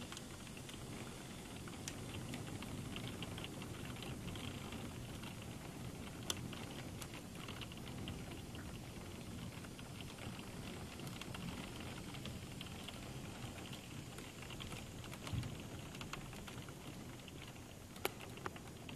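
Light rain pattering: a faint, steady patter of many small drops, with a few sharper single clicks.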